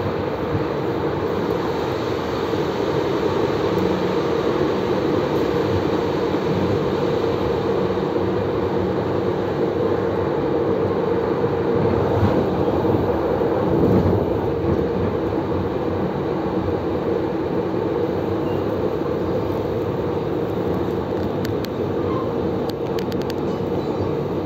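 Running noise of a moving passenger train heard from inside the carriage: a steady rumble with a constant hum, swelling briefly about fourteen seconds in.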